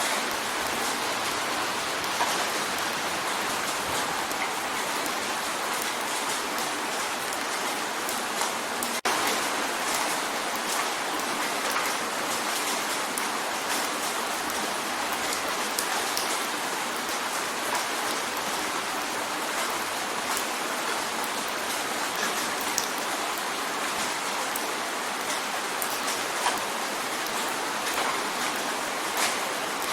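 Steady rain drumming on a window, a dense hiss scattered with the ticks of single drops striking the glass. About nine seconds in, the sound drops out for an instant, like a splice in the recording.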